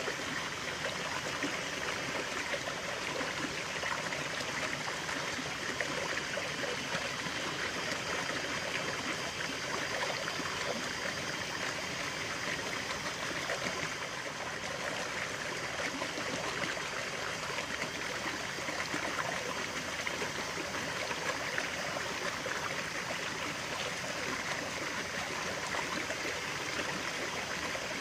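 Stream of water running and trickling steadily over stones, a continuous splashing babble without pause.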